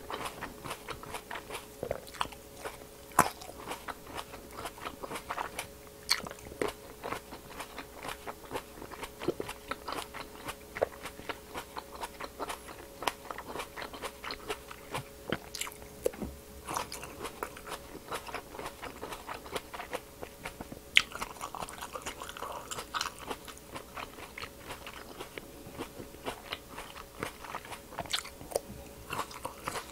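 Large green grapes being bitten and chewed close to a clip-on microphone: many small sharp crunching clicks as the skins break, with steady chewing between them.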